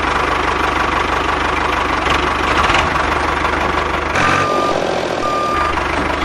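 A tractor-style engine running steadily with an even low chug. From about four seconds in, a reversing beeper sounds in half-second beeps about once a second.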